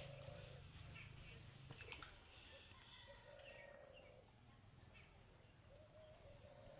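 Faint outdoor ambience with birds chirping and calling, with a few soft clicks about a second in.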